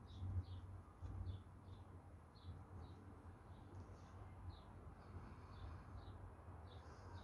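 Faint bird chirping: a steady series of short, high chirps, about two a second, over a low hum.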